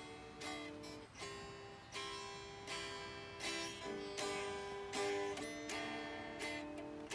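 Background music: an acoustic guitar strumming chords, each strum ringing on until the next.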